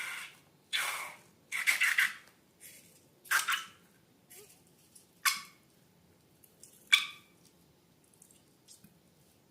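Slime being handled and squished, in a series of short, irregular squelches about every second or two.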